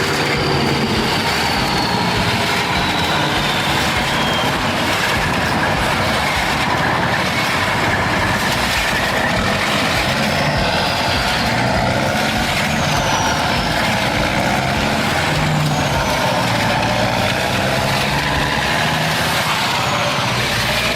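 A heavy vehicle engine, likely a farm machine, runs steadily, with a few faint falling high whistles over it.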